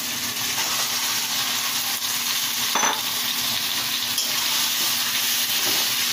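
Marinated chicken sizzling steadily in hot oil in a kadai as it goes in and is stirred, with one short knock about three seconds in.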